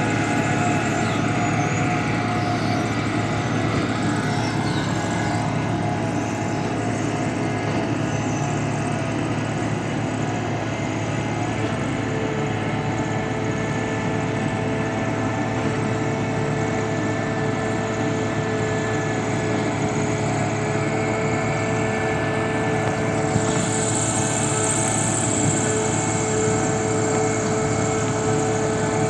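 Engine of a piling drill rig running steadily under load while augering concrete piles into the ground, a constant drone with a few held tones. A further whine joins about 12 seconds in, and a higher hiss about two-thirds of the way through.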